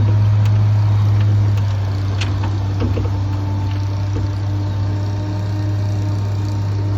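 Ford bucket truck's engine running steadily with the PTO engaged, driving the hydraulics of the boom: a steady low hum with a faint higher whine above it, easing off slightly about two seconds in.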